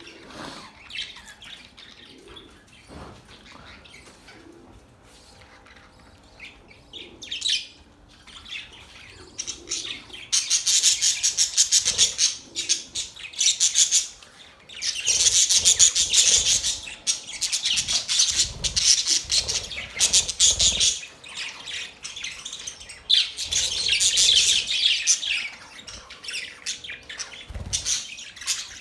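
Budgerigars warbling and chattering: soft scattered chirps at first, then from about ten seconds in a loud, dense run of high chirping that carries on in long stretches with a few short breaks.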